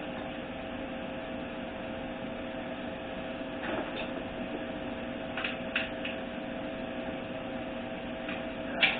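Steady electrical hum with two steady tones. A few light knocks and clicks come from the transmission parts being handled, the last and loudest near the end.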